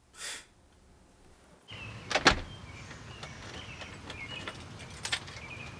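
Outdoor background with a few short, high bird chirps and a single sharp knock, after a brief hiss and a moment of near silence.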